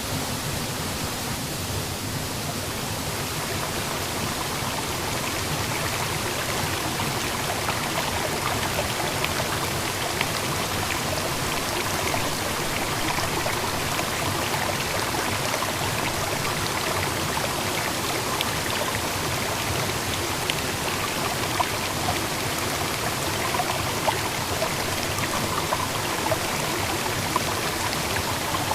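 Steady rushing water, with scattered small ticks from about six seconds in.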